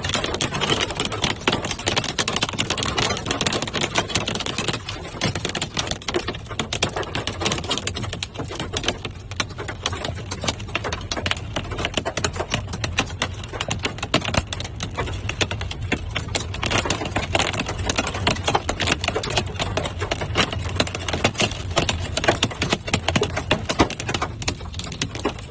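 Hail and heavy rain pelting a car's body and glass in a dense, rapid patter of clicks, with a low steady hum underneath.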